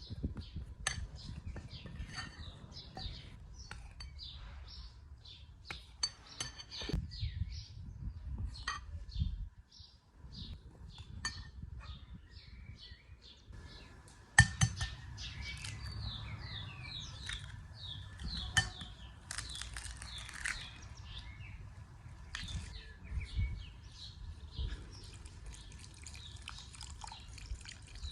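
Small birds chirping again and again over a low rumble, with scattered clinks and knocks of cookware and utensils; the sharpest knock comes about halfway through.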